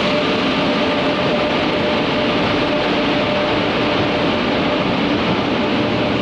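Indian Railways passenger train rolling past along a station platform: the locomotive and then the coaches go by with a steady, loud rumble of wheels on rails and a faint steady hum.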